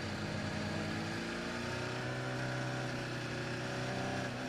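Onboard audio of a Red Bull-Honda Formula 1 car's 1.6-litre turbo-hybrid V6 running at reduced pace behind the safety car, its engine note fairly steady, with a deeper note coming in about a second and a half in.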